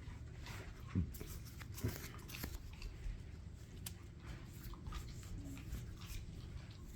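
Dogs crunching and chewing treats: scattered short crunches and clicks, with two louder knocks about one and two seconds in.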